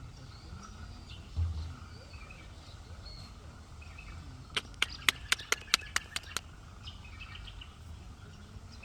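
Faint scattered bird chirps, with a short low thump about a second and a half in. Midway comes a quick run of about eight sharp clicks, some four a second.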